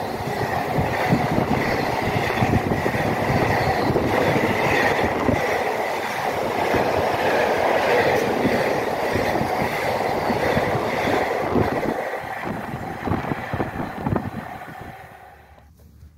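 Intermodal container wagons of a freight train rolling past at speed: a steady rumble with irregular wheel clatter. It fades away over the last few seconds as the end of the train passes.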